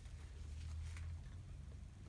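Soft chewing and wet mouth sounds of someone eating a burger: a few faint smacks around the middle, over a low steady hum.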